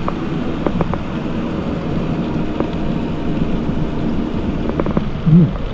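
Motorcycle engine running steadily while riding, with wind noise on the microphone, after the engine's piston has been refitted. A short rising-then-falling sound cuts in near the end.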